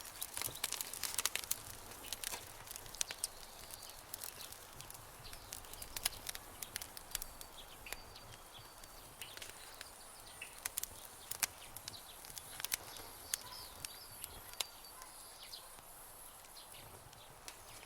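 Campfire crackling: irregular sharp pops and snaps over a soft hiss, busiest in the first few seconds. A few faint high chirps sound in the background.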